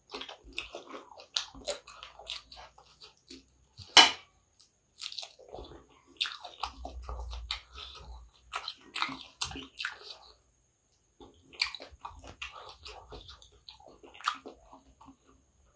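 Close-miked chewing and mouth sounds of someone eating kottu roti, with wet smacks and small crunches, plus the clink of a spoon; a sharp click stands out about four seconds in.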